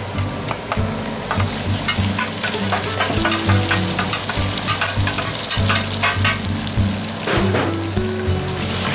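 Stir-fry ingredients sizzling and crackling in hot oil in a pan, stirred with many short clicks and scrapes, over background music.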